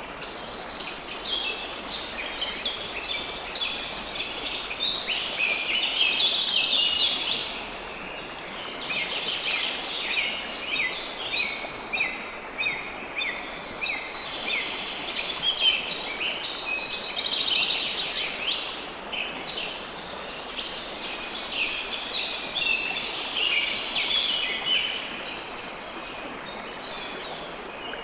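A steady rush of flowing river water with songbirds chirping over it, the birdsong coming in busy spells through most of the stretch and easing off near the end.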